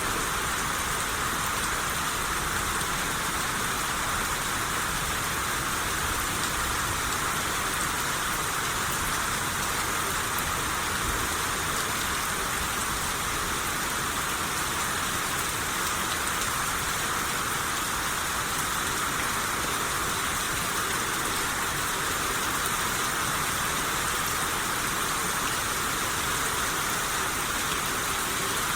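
Steady rain shower falling and pattering on surfaces, an even hiss with no let-up.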